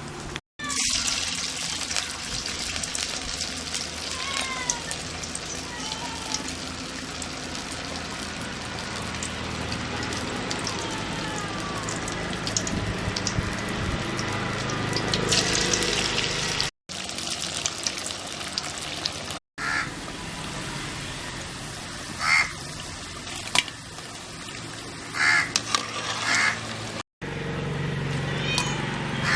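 Chicken vadas deep-frying, hot oil sizzling steadily in several short clips that cut abruptly from one to the next, with a few brief chirps over it.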